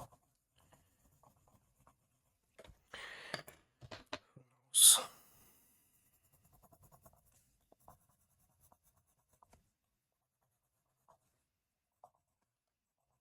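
Drawing strokes scratching across the page in short bursts, with one louder, sharper hiss of a stroke or breath about five seconds in, then only faint scattered ticks.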